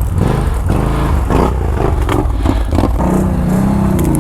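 ATV engine revving unevenly under load, with some clatter, then holding a steadier note for the last second or so.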